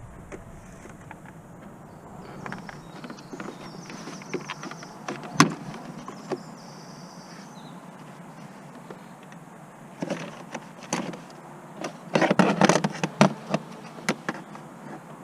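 Workshop tool noise on a car: scattered metallic clicks and knocks, with a dense run of rapid clatter a little past the middle. A faint high whine sounds in the first few seconds.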